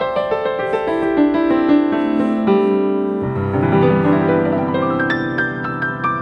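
Background music on piano: a run of quick notes stepping downward, then held chords over a low bass note that comes in about halfway through.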